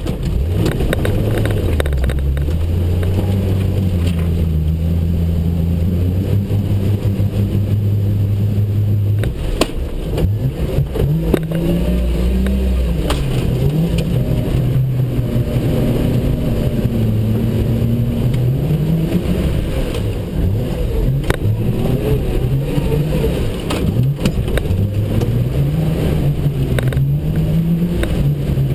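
Jeep Cherokee XJ engine working through deep trail mud, its note repeatedly rising and falling as the throttle is worked, with a few brief knocks along the way.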